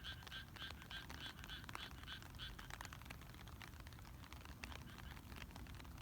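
A frog calling in a rapid series of short croaks, about four a second, that stops about two and a half seconds in, over a light patter of raindrops.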